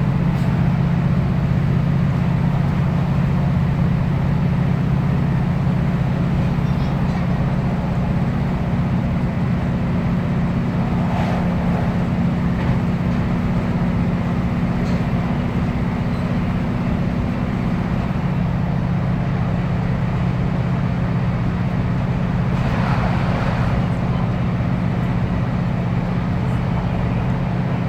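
Class 156 diesel multiple unit running on the line: the steady drone of its Cummins diesel engine over the rumble of wheels on rail. The engine note shifts slightly lower about two-thirds of the way through.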